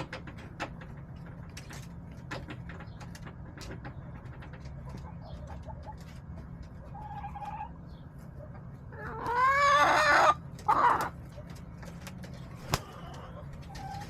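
Backyard chickens: soft clucks and scattered pecking and scratching clicks. About nine seconds in, one chicken gives a loud crow lasting just over a second, followed by a short second loud call.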